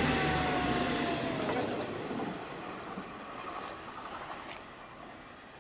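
A train running past and moving away, its rumble and rail noise dying away over the first few seconds.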